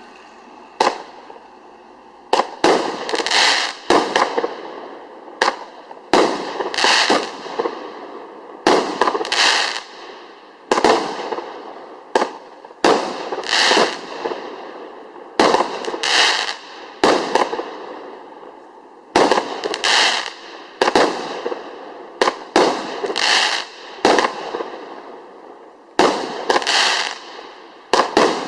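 A 24-shot consumer cake firework firing its tubes one after another, a shot every second or two. Each shot is a sharp launch report followed by a burst that trails off.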